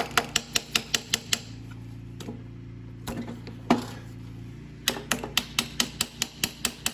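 Ratcheting hand tool clicking in quick even runs, about five clicks a second, as a fastener is turned. The clicking pauses in the middle, where there is a single knock, and a low steady hum runs underneath.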